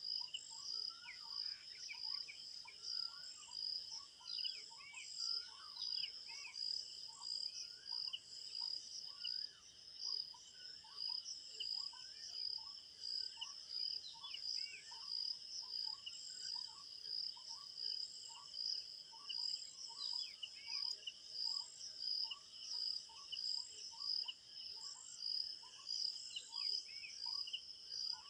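Crickets chirping in a dense, pulsing chorus, with birds calling short, quick notes over and over underneath.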